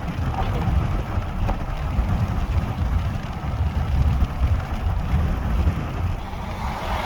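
Steady low rumble of road and engine noise from inside a moving vehicle, with wind.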